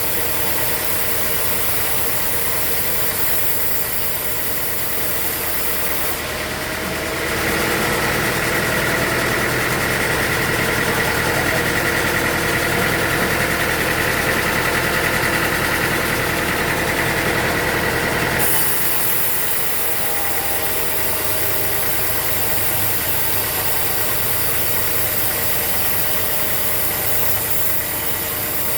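Sawmill machinery running with a steady engine-like drone. Roughly a quarter of the way in, it turns louder with a steady high whine, then drops back abruptly about two-thirds of the way through.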